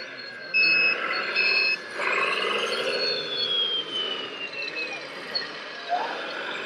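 Two reversing beeps, each about half a second long, from a radio-controlled truck's sound module, followed by a motor whine that rises and then slowly falls in pitch.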